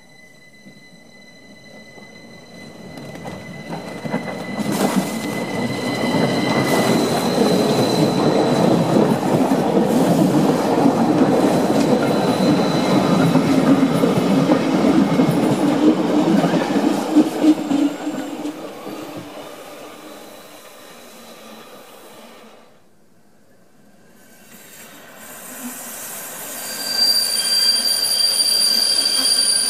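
Rhaetian Railway ABe 8/12 Allegra electric train and its coaches rolling past at close range, the rumble building, holding and then fading away. After a brief break, a second train of red railcars runs with steady high-pitched wheel squeal from the tight mountain curves.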